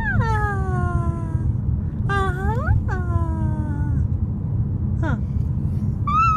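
A baby's squeaky, high-pitched squeals, about five in a row. Most slide down in pitch, and the first rises before it falls. A steady low rumble of the car on the road runs beneath them.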